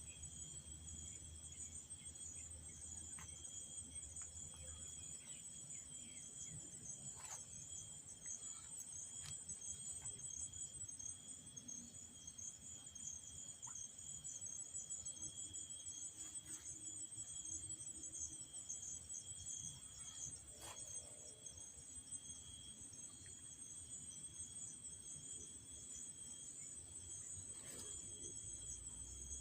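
Crickets and other insects chirping steadily: a dense, fast-pulsing high trill with a second thin, steady high tone beneath it. A few faint clicks come through now and then.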